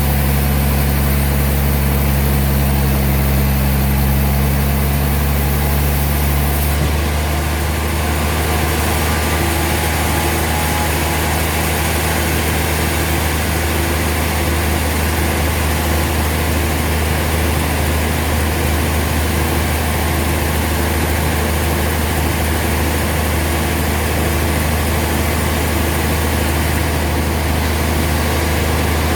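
Sawmill machinery running, a steady low engine drone. About seven seconds in, its sound shifts and more high hiss comes in.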